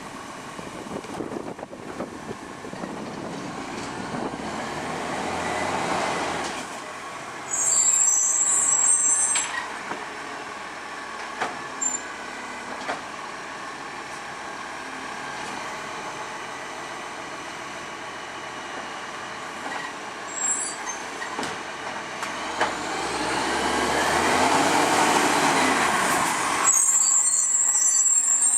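International ACCO recycling truck with an automated side-loader: the engine revs up twice, powering the hydraulic arm and returning to idle, with two short bursts of compressed-air hiss from the air brakes.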